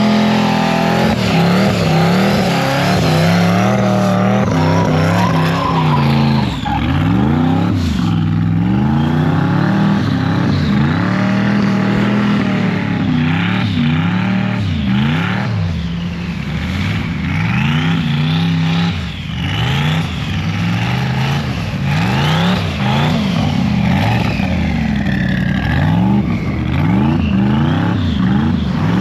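Twin-turbo LS V8 engine of a BMW E36 drag car revving hard, its pitch repeatedly rising and falling under on-off throttle, with steadier high-rev stretches near the start and the end, as the car spins its wheels sliding on snow.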